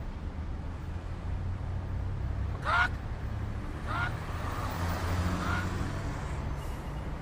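A bird giving two short calls, about three and four seconds in, over steady road traffic rumble, with a vehicle passing in the middle.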